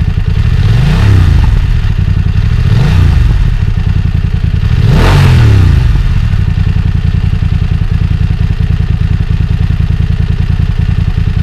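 BMW F900 XR's 895 cc parallel-twin engine on its stock exhaust, idling with three quick throttle blips about one, three and five seconds in. The last blip is the longest, and the engine drops back to a steady idle after each.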